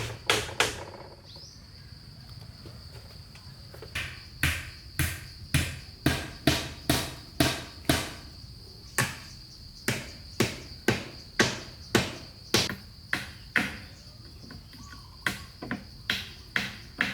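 Repeated sharp strikes of a hand tool on wood, about two a second, pausing for a few seconds near the start and then running on steadily. Under them, a steady high-pitched insect drone like a cricket's.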